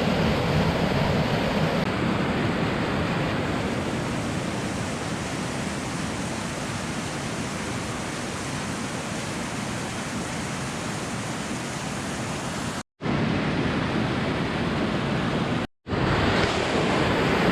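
Waterfall rushing as a steady, loud roar of falling water, broken by two brief dropouts to silence near the end.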